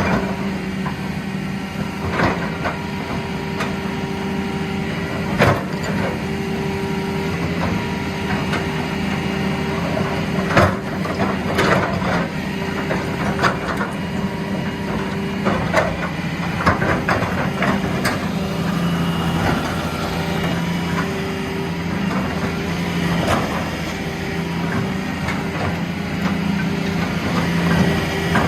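Heavy diesel engines of an excavator and a truck running steadily, with frequent sharp knocks and clanks over the drone.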